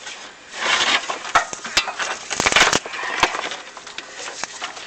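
Scraping and clattering from a chimney inspection camera and its cable rubbing and knocking against the flue walls, an uneven run of scrapes and sharp clicks that is loudest around the middle.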